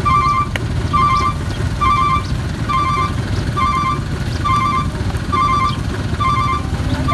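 A truck's reversing alarm beeping evenly, about once a second, nine beeps in all, over the steady rumble of the truck's diesel engine running.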